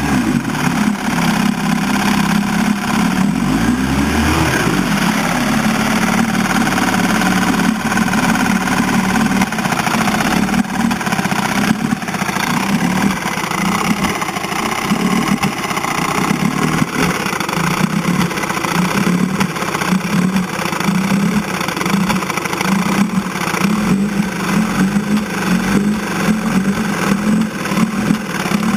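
1960 Evinrude 10 hp Sportwin two-stroke twin outboard motor idling in gear, running roughly: its note surges unevenly, growing more lumpy in the second half, with a brief rise in pitch about four seconds in. This is the rough low-speed idle the owner is trying to cure, which normally ends with the motor dying on its own.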